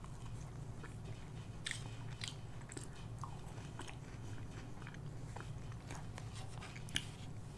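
Close-miked mouth sounds of someone chewing McDonald's French fries: soft, irregular crunches and small wet clicks. A steady low hum from a room air conditioner runs underneath.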